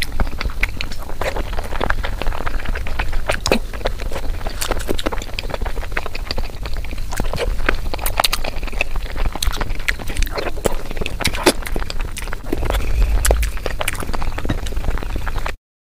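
Close-miked eating of peeled boiled eggs dipped in sauce: wet, sticky chewing with many irregular mouth clicks and smacks over a low rumble. The sound cuts to dead silence near the end.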